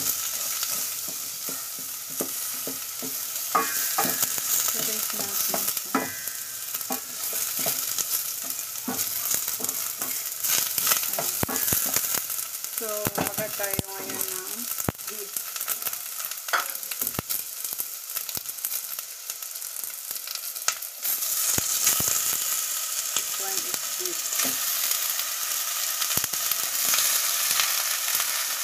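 Onion, garlic and red chili sizzling in a hot stainless steel pot while a wooden spoon stirs them, scraping and knocking against the pot. The sizzle grows louder about two-thirds of the way through.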